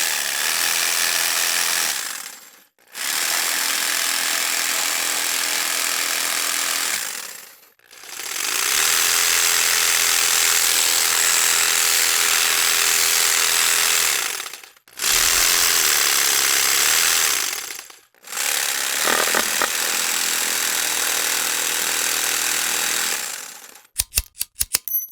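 A series of separate recordings of a loud, steady power-tool-like mechanical noise, each a few seconds long with short silent gaps between them. Near the end comes a quick run of sharp knocks.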